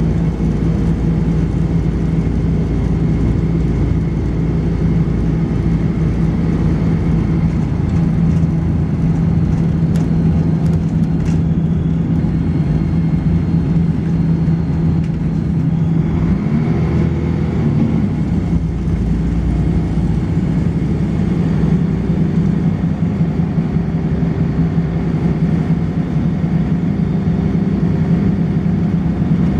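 Volvo B10BLE single-decker bus's diesel engine running steadily under way, heard from on board. A faint thin high whine sits over it for the first half. A little past halfway the engine note breaks and glides before settling again.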